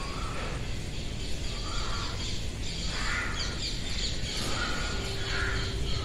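Birds calling outdoors, a string of short calls every second or so, over a steady low background rumble.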